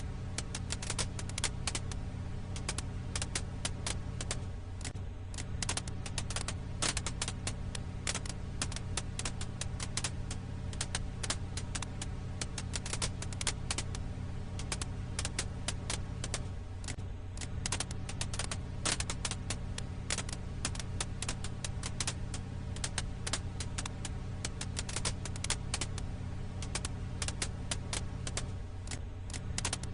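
Firewood crackling in a campfire, with many irregular sharp snaps and pops over a steady low hum.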